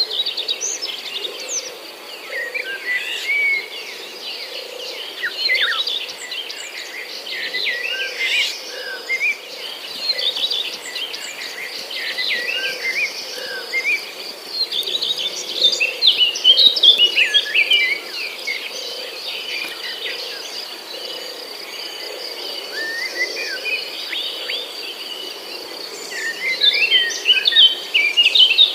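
Many small birds chirping and twittering at once, busiest in several flurries through the stretch, over the soft regular fall of footsteps on a path.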